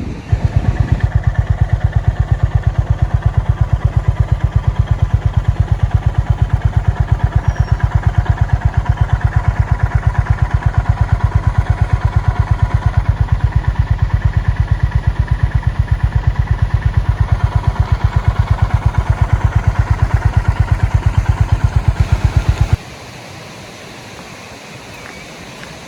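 Honda CB350 RS's air-cooled single-cylinder engine idling, an even, unchanging beat of firing pulses through its exhaust. It stops suddenly near the end, leaving a soft steady rushing noise.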